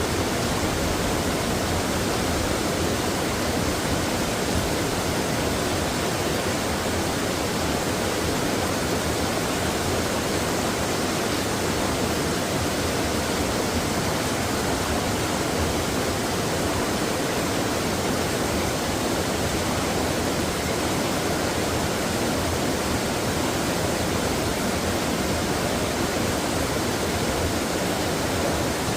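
Mountain stream water rushing and splashing over rocks, a steady, unbroken noise with no pauses.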